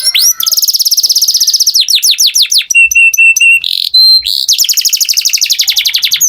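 Canary singing in quick phrases. It opens with a fast rolling trill, moves to a run of falling sweeps, then a few short even notes and a held high note. It ends with another fast trill.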